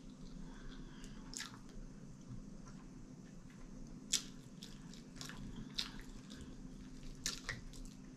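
Close-miked chewing of a bite of syrup-topped pancake: soft, wet mouth sounds with a few short sharp clicks, over a steady low hum.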